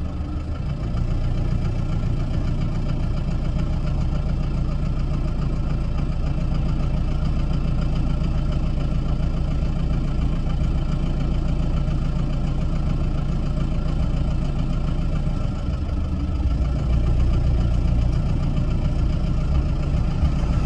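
Vehicle engine idling steadily with a low hum, growing a little louder in the last few seconds.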